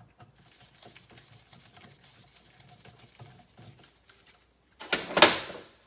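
Light scattered clicks of metal tools and parts being handled on a motorcycle engine case, then a loud, harsh metallic scrape about five seconds in that lasts under a second.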